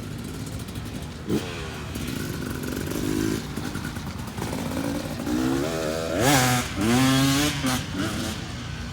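Motorcycle engine running and revving repeatedly, with its pitch rising several times; the loudest run of revs comes about six to seven and a half seconds in.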